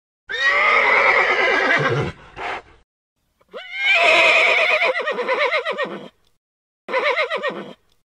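A horse neighing: three loud whinnies with a quavering, wavering pitch. The first two are long and the last is shorter, near the end.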